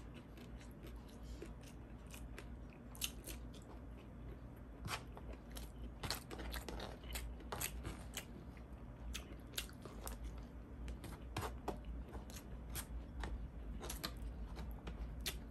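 Close-miked eating: chewing and crunching with many short, irregular wet mouth clicks, over a steady low hum.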